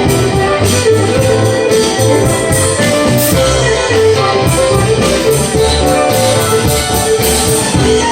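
Live contra dance band music: fiddle tune with keyboard, plucked strings and percussion playing a steady beat.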